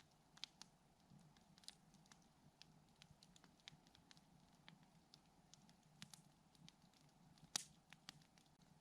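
Wood campfire crackling softly, with scattered small pops and one sharper, louder pop near the end.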